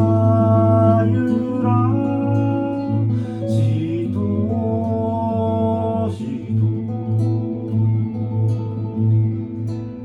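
Acoustic guitar music: a performance of an original piece, with a sustained melody line held above the guitar's chords and bass.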